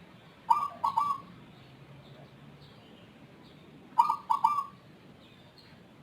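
Zebra dove (perkutut) cooing: two short phrases of a few quick notes each, about three and a half seconds apart. The owner considers its song unusual, unlike that of local or Bangkok perkutut.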